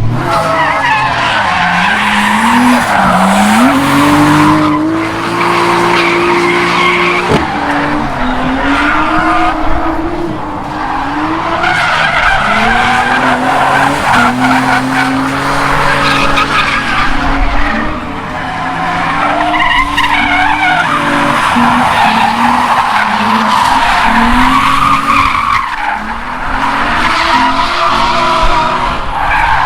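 Nissan 350Z's V6 engine drifting: revs rise and fall over and over as the throttle is worked, with the rear tyres squealing continuously through the slides.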